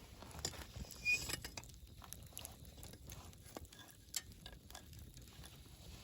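Wood fire burning: soft hiss with irregular crackles and pops, a louder flurry of crackling about a second in and a single sharp snap about four seconds in.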